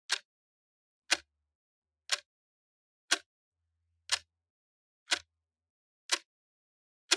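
Clock ticking once a second: short, sharp, dry ticks with silence between them.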